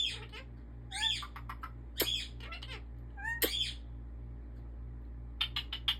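African ringneck parakeet giving about three short, squeaky chirps between its words, then a quick run of sharp clicks near the end.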